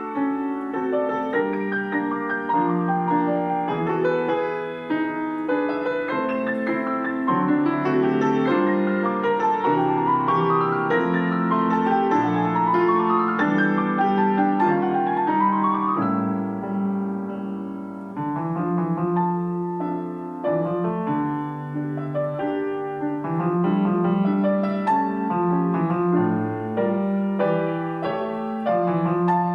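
Piano ensemble of two players performing a lyrical piece, with three quick rising runs in the upper register midway through.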